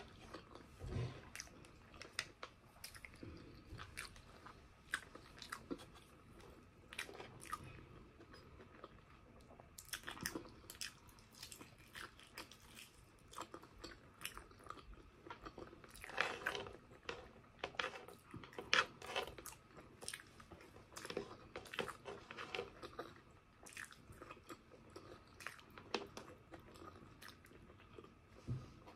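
Close-miked chewing and biting of a person eating braised pork hock (pork pata estofado) with her fingers, a steady run of irregular mouth clicks. The clicks are busiest about a third of the way in and again through the middle.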